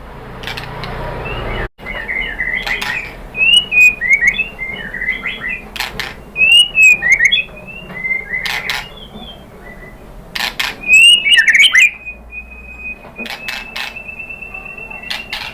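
White-rumped shama singing quick, varied whistled phrases mixed with sharp clicking notes. About twelve seconds in, it switches to a long, rapid trill held on one pitch.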